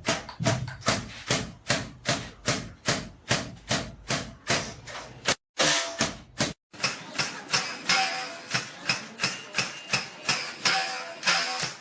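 A cotton-fluffing bow's string being struck by a mallet to loosen and fluff raw cotton, giving a steady run of sharp, twanging strikes about three a second. The rhythm breaks off twice for a moment, about five and a half seconds in and again just before seven.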